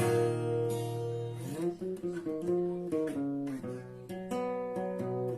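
Acoustic guitar music: chords strummed and left to ring, with new strums every second or so.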